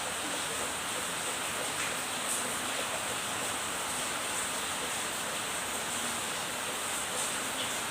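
Steady, unbroken hiss, heaviest in the high range.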